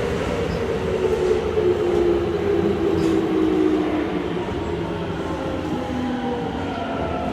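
Keikyu 1500 series train's Mitsubishi GTO-VVVF inverter and traction motors whining in several tones that glide steadily down in pitch as the train slows, over a steady rumble of wheels on rail.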